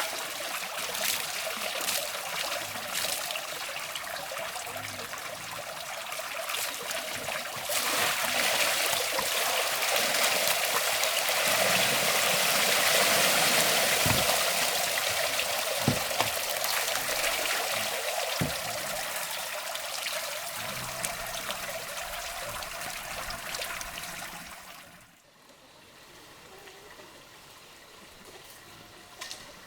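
Water running steadily, growing louder for a while, with a few soft thumps in the middle, then stopping fairly suddenly near the end.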